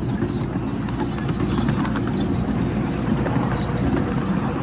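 Miniature railway train running on its track: a steady low rumble with a constant light clatter.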